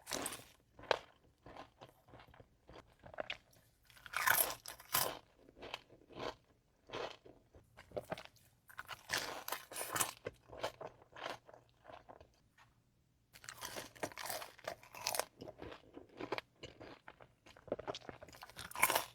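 Close-miked bites and chewing of crunchy fried food from Raising Cane's, in irregular bursts of crisp crunching, with a near-quiet pause about twelve seconds in.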